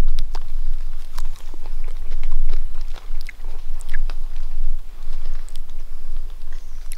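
A person biting into and chewing freshly picked salal, with irregular crisp crunches and clicks through the chewing over a steady low rumble.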